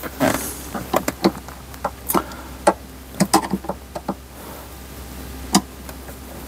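Irregular sharp clicks and knocks from hands and tools working on a car's interior trim panels under the dashboard, over a faint steady low hum.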